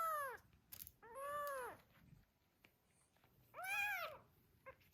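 Very young kitten mewing three times, each short call rising and then falling in pitch.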